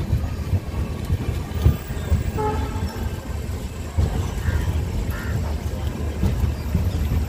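Passenger train running along the track with a steady low rumble. Short higher-pitched sounds come through about two and a half seconds in and again around five seconds.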